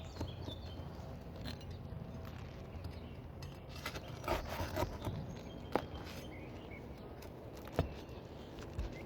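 Scattered scrapes and sharp clicks of hand work on brittle asphalt shingles as they are pried loose, with a cluster of louder knocks about four to five seconds in and single sharp clicks near six and eight seconds.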